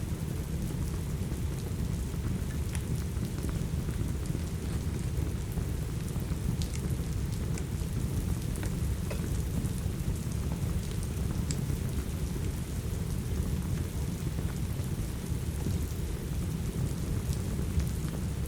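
Steady heavy rain with a deep, continuous rumble underneath, and scattered faint crackles throughout.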